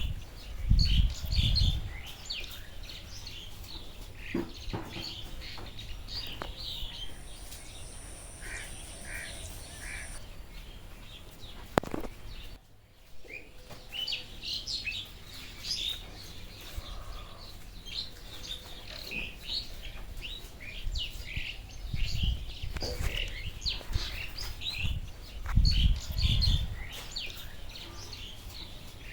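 Birds chirping, with many short high calls throughout and a few low thuds. A thin steady high tone runs for a few seconds near the middle.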